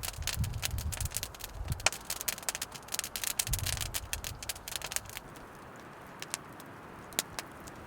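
Wood campfire crackling, with irregular sharp pops and a few low rushes of flame; the popping thins out after about five seconds.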